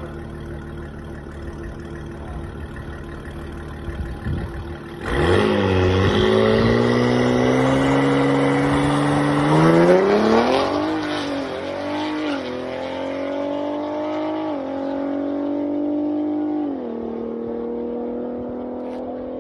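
Cadillac ATS-V's twin-turbo V6 idling, then revved hard about five seconds in, the pitch climbing as the car launches down the drag strip. Three or four upshifts follow, each a sudden drop in pitch before it climbs again, and the engine fades as the car pulls away.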